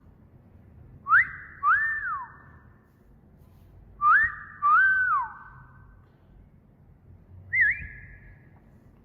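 Wolf whistle, twice about three seconds apart: a quick rising note, then a note that rises, holds and falls, each trailing an echo. Near the end comes a short wavering whistle.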